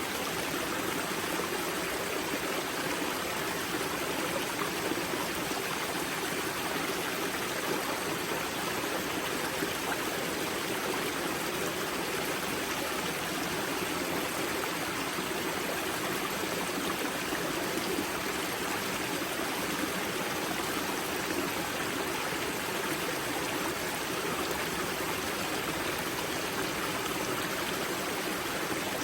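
Spring-fed mountain river at its source, water running and splashing over rocks in a steady, even rush.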